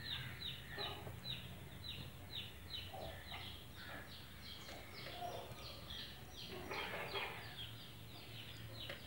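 A bird chirping over and over, a steady run of short high chirps that each fall in pitch, about three a second.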